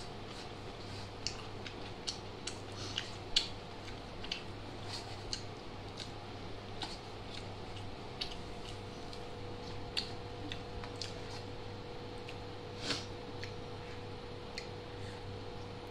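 A person eating rice and chicken curry: irregular small wet clicks and smacks of chewing, with a sharper click about 13 seconds in, over a steady low hum.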